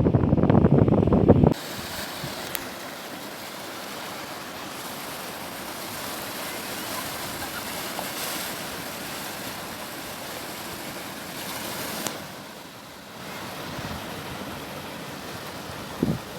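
Heavy sea surf: a steady rush of breaking waves. For the first second and a half a loud low rumble of wind buffeting the microphone covers it, then cuts off abruptly.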